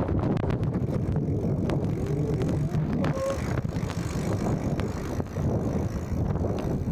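Rumbling wind buffeting and rattling knocks from a phone carried in a bag during a bicycle ride, heard muffled through the bag.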